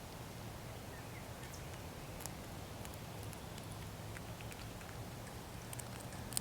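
Faint, scattered small clicks and taps over a steady low hum, with a few louder clicks bunched together near the end.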